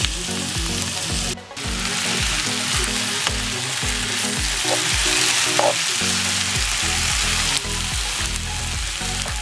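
Poblano pepper strips and onion sizzling as they fry in butter in a pan, stirred now and then with a spatula; the sizzle drops out for a moment about a second and a half in. Background music with a steady beat plays underneath.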